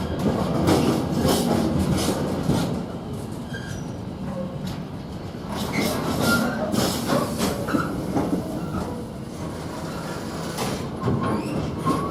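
Freight train wagons rolling past at speed, wheels clattering over the rail joints in a run of clicks, with short wheel squeals here and there.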